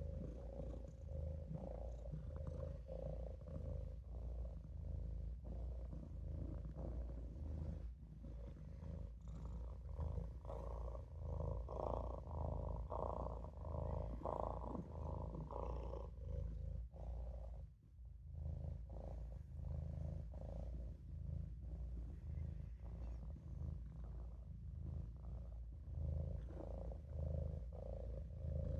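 Maine Coon kitten purring steadily, a low pulsing rumble that breaks off briefly about two-thirds of the way through.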